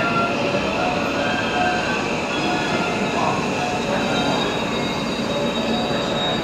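JR West electric train running along the station platform: a steady rumble of wheels on rail, with thin high squealing tones from the wheels over it.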